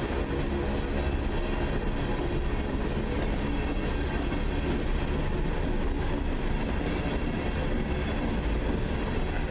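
Freight train rolling past, a steady rumble with some clatter from the wheels on the rails.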